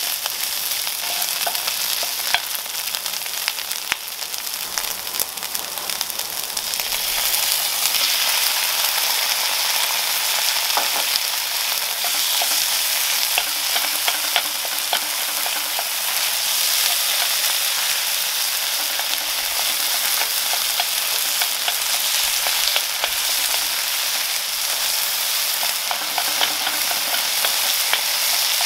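Minced beef with diced onion and red pepper sizzling in a frying pan, stirred with a wooden spoon that taps and scrapes the pan. The sizzle grows louder about seven seconds in, and peeled tomatoes then cook and steam in the pan with the mince.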